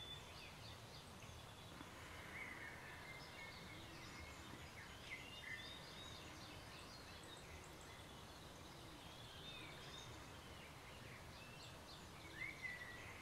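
Faint birdsong: scattered short chirps and whistled calls over a low, steady background hiss.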